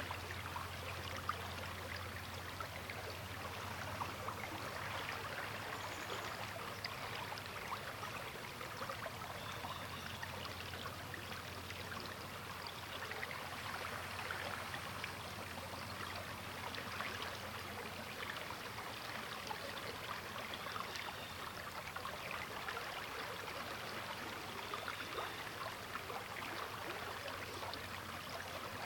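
River water flowing steadily: a continuous rushing with fine splashing and gurgling.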